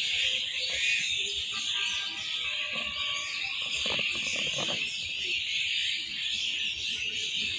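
Many small birds chirping at once, a dense, continuous high-pitched chatter with no pause.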